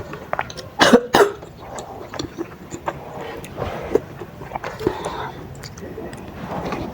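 A person eating spicy meatball soup up close to the microphone: small wet chewing and slurping clicks, with two sharp, loud bursts from the mouth or throat about a second in.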